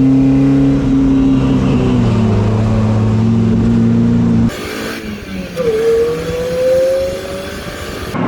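Car engine sounds in two edited clips: a steady, slightly falling engine note, then after an abrupt cut about halfway through, an engine note rising slowly in pitch.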